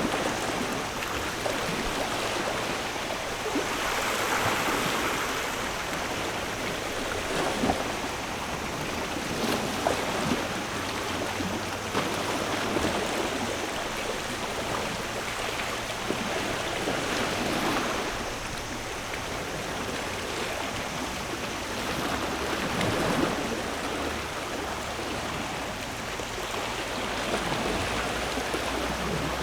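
Sea waves washing onto a shore, a steady rush of water that swells and falls back every several seconds.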